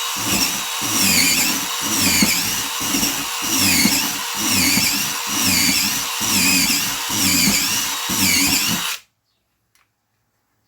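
DeWalt DCF887 brushless impact driver running under load as it bores one hole after another into a scrap 2x6 pine board. There are short breaks about once a second between holes, and it stops abruptly about nine seconds in.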